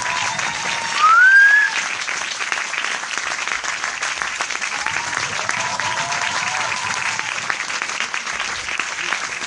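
Crowd applause: many hands clapping steadily, with a loud rising whistle from the crowd about a second in.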